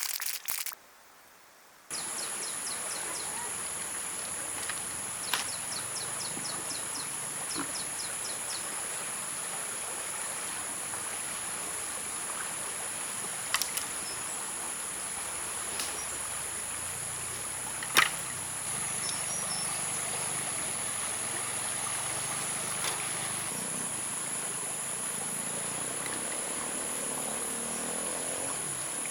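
Steady high-pitched chorus of insects trilling in the woods, with a few short pulsed trills early on. Several sharp clicks cut through it, the loudest about eighteen seconds in.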